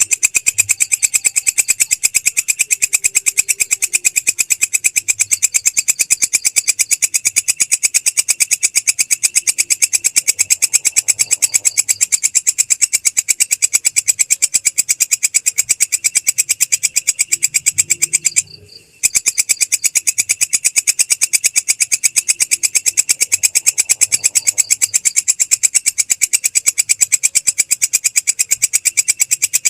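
Belalang krek, a singing grasshopper kept as a song tutor for cage birds, stridulating in a fast, even, rasping pulse train that keeps going. It breaks off for about half a second after roughly eighteen seconds, then resumes.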